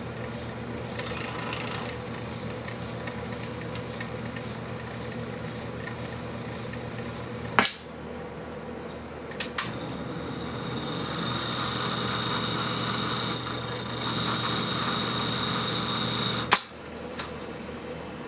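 Antique wire recorder's motor and transport mechanism being tried out: sharp clicks of its controls over a steady electrical hum, and a whirring with a thin high whine for several seconds from about ten seconds in, cut off by a click.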